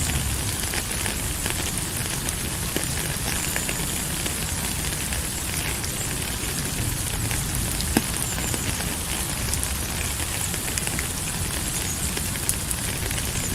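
Steady rain: a constant even hiss with scattered sharp drop ticks, and one louder click a little past the middle.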